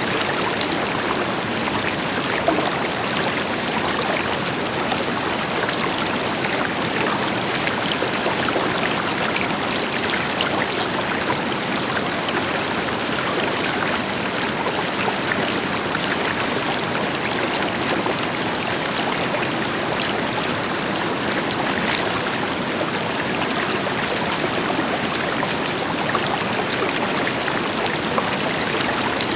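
River water flowing over rocks, a steady rushing with small splashes and trickles, backed by the deeper hiss of a distant waterfall.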